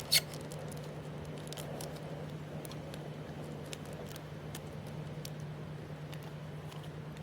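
Small clinks and clicks of cooking at a pot of instant noodles, with one sharp clink just after the start, over a steady low hum.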